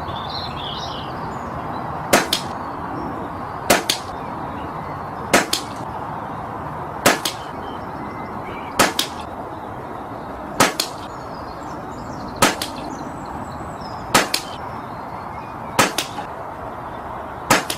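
Brocock Concept PCP air rifle fired in a steady string, ten shots about every 1.7 seconds, each a sharp crack with a quick second snap close behind it.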